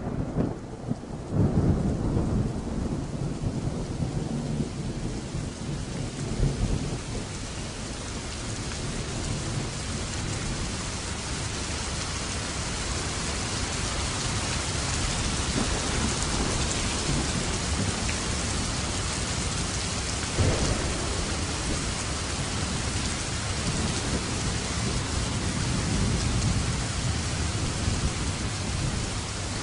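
Thunderstorm: low thunder rumbles in the first several seconds, then steady heavy rain falling, with one short low thud about two-thirds of the way through.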